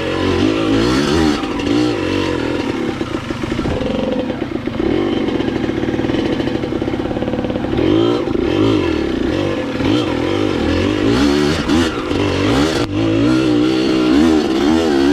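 Dirt bike engine revving up and down over and over, its pitch rising and falling as the throttle is worked while riding.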